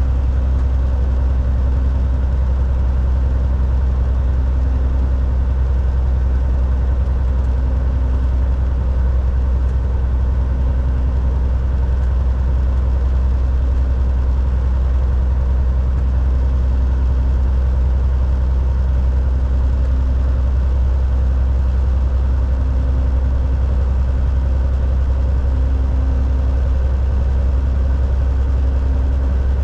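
Volvo VNL 760 semi truck's diesel engine and road noise heard from inside the cab: a constant low drone with a faint throb that comes and goes every few seconds.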